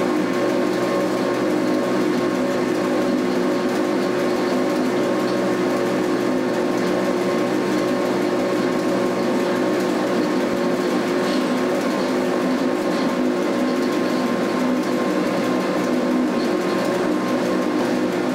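Electric cogwheel train running at a steady speed, heard from inside its front cab: a constant mechanical hum and whine from the motors and drive, with several held tones that do not change.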